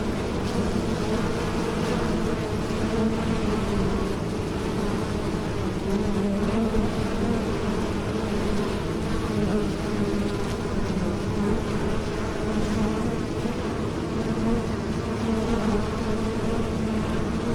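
Bees buzzing in flight: a steady droning hum from their beating wings that swells and fades slightly.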